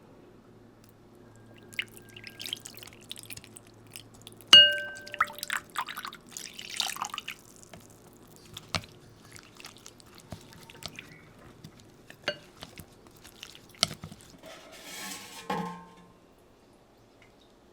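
Kitchen work with glassware or dishes: scattered knocks and clinks, with one sharp ringing clink about four and a half seconds in. Near the end there is a short splash of water.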